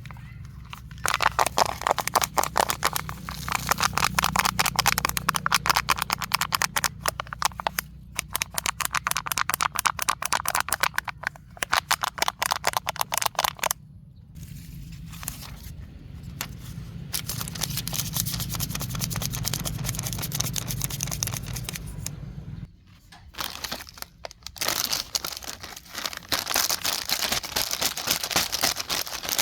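Plastic trash crinkling and crackling as it is handled: a dense run of fast crackles with two short lulls. A low steady hum runs underneath and stops about three quarters of the way through.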